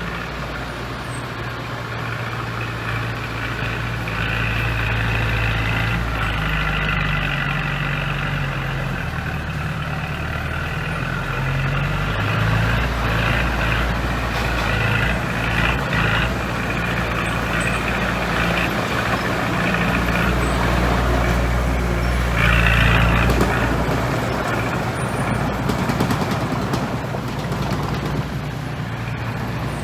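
Heavy diesel earthmoving machinery running and working, the engine note rising and falling with load, with a high hiss that swells now and then, loudest about 23 seconds in.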